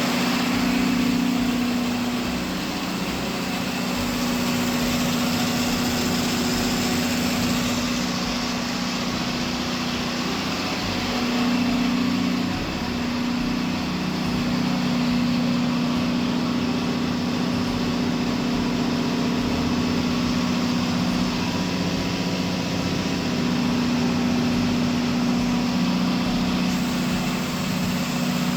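Kohler 125 kW standby generator's engine running steadily at constant speed with a steady hum after a head gasket repair, with a new cylinder head, injectors, oil cooler and water pump fitted.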